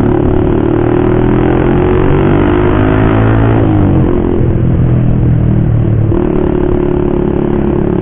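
Motorcycle with an aftermarket racing exhaust running on the road, its engine note rising slowly, dropping sharply about halfway through as at a gear change or throttle lift, then holding steady.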